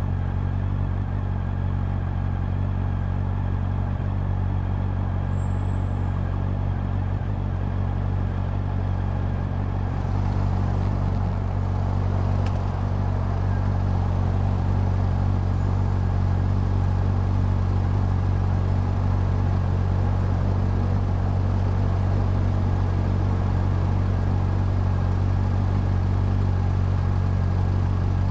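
Honda CB400 Super Four's inline-four engine running at a steady, unchanging speed, a low even exhaust note. About ten seconds in, the background hiss grows a little louder.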